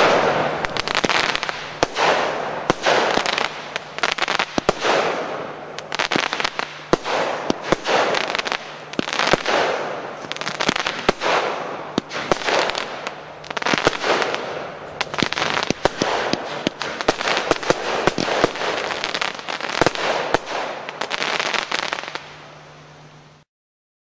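Royal Fireworks RFC 1481 'Ceremony of Fantasy' consumer fireworks cake firing a rapid series of shots, sharp bangs and bursts following one another, at times several a second. It dies away about 22 seconds in, and the sound cuts out briefly near the end.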